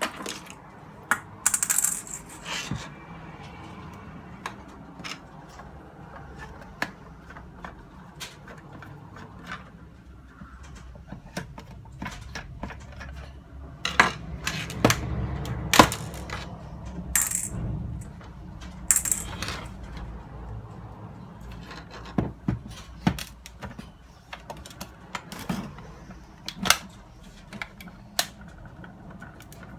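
Irregular clicks, clinks and small clatters of a plastic portable radio's parts and screws being handled and set down on a hard surface while it is taken apart, with a few sharper metallic clinks.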